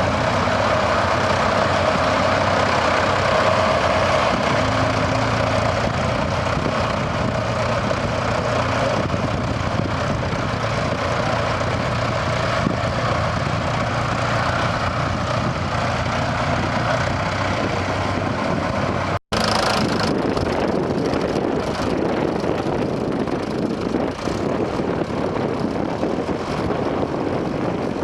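A heavy tractor engine running steadily under load while ploughing. About two-thirds of the way through, a sudden cut leads to a noisier, hissier stretch of engine sound.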